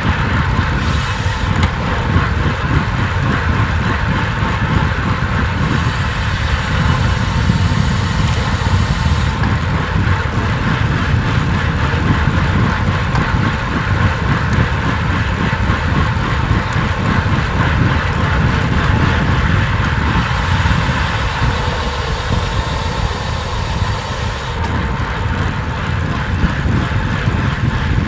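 Steady loud rumble and rush of a fast downhill road ride: wind and road noise at speed. A faint high hiss comes in twice, once early and once in the second half.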